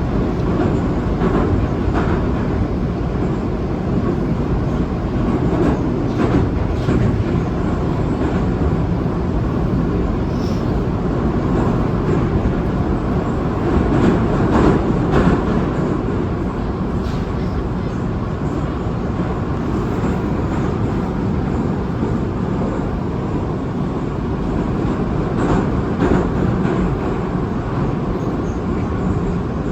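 Saint Petersburg metro train running between stations in a tunnel, heard from inside the carriage: a steady rumble of wheels on rail, with occasional clicks.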